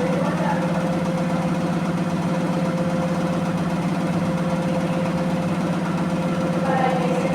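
Electrolux 15 kg commercial washing machine on its final spin at 1245 rpm: a steady hum with a fast, even pulsing from the spinning drum. A short squeak comes just after the start and again near the end, the bad squeaking noise of this spin.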